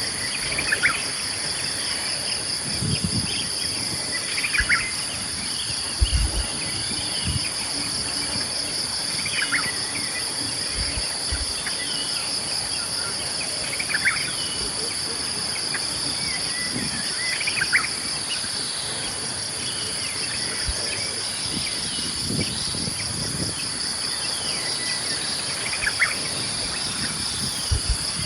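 A steady, high insect chorus with a fast pulsing trill. Over it come short, downward-sliding bird calls every few seconds, with a few brief low thumps.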